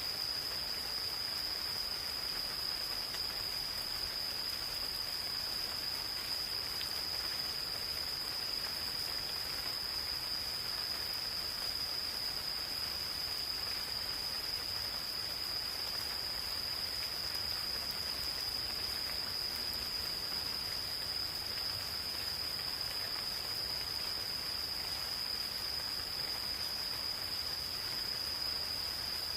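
Insects calling in one steady, unbroken high-pitched trill over the soft, even patter of gentle rain.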